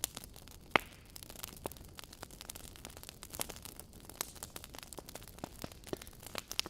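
Wood fire burning in a fireplace: logs crackling with irregular sharp pops over a soft hiss, the loudest pop about a second in.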